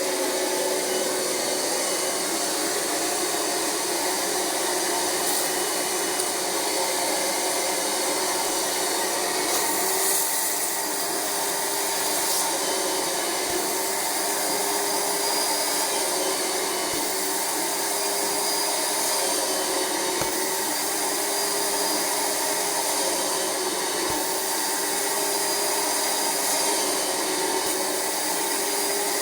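Rug Doctor carpet cleaner's suction motor running steadily, a constant rushing whine, as the Universal Hand Tool extracts cleaning solution from microfiber couch upholstery.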